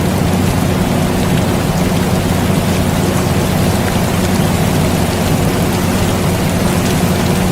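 Steady rain noise mixed with the constant low hum of an air conditioner running, both unchanging throughout.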